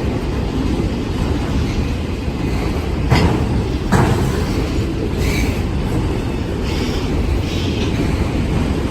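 A train passing close by, with a steady rumble of rolling wheels and two sharp clanks about a second apart near the middle.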